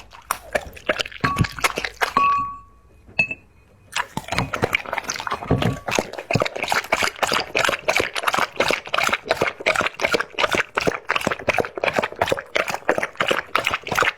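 Dog lapping liquid: a fast, steady run of wet clicks about five a second, after a short pause a few seconds in.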